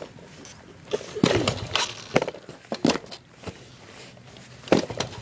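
A 90cc dirt bike's kickstart lever being kicked, giving irregular metallic clanks and knocks about a second apart. The engine does not catch.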